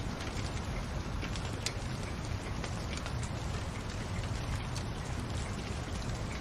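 Wood fire in a fireplace crackling: a steady low rumble and hiss with irregular sharp pops, one standing out just under two seconds in.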